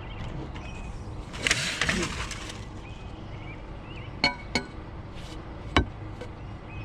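Curbside scrap being rummaged by hand: a clattering rattle of hard items about a second and a half in, then three sharp clinks a little later.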